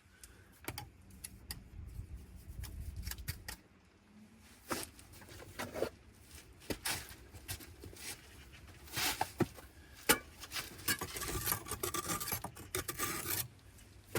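Hand tools scraping and rasping on brick and mortar, with scattered short taps and a longer spell of scraping near the end.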